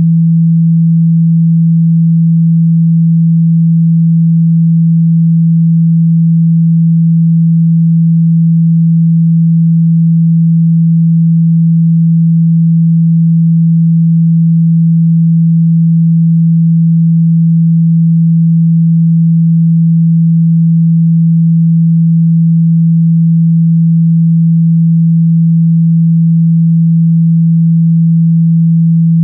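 A steady, loud 165 Hz sine tone held without change: a low pure hum played to vibrate phone speaker grilles and drive out water and dust.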